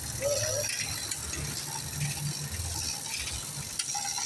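Ratcheting mechanical clicking over a low, uneven hum.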